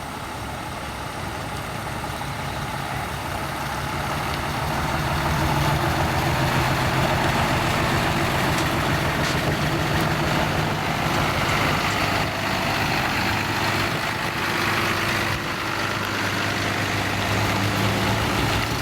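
Diesel engine of a heavy decorated truck running, growing louder over the first five seconds or so and then holding steady.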